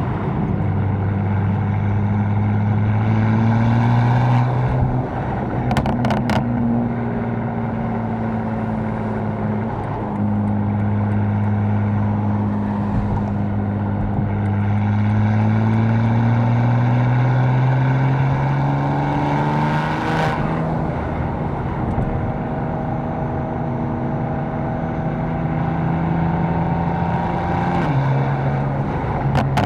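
BMW M4's catless twin-turbo straight-six running under light throttle, its pitch climbing slowly and stepping down at a few upshifts.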